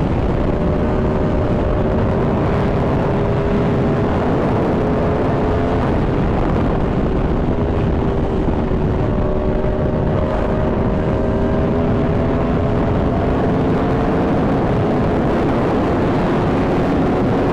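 Aprilia Tuono V4 motorcycle's V4 engine running hard at a high, steady cruising speed, with a few steady engine tones that barely change pitch, under a loud constant rush of wind over the microphone.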